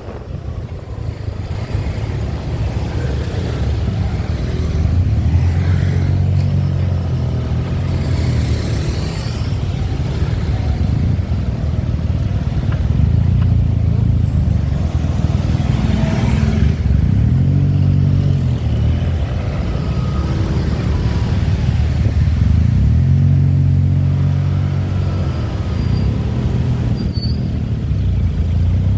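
Motorbike engine running on the move, its low note rising and falling with the throttle, with a few brief revs.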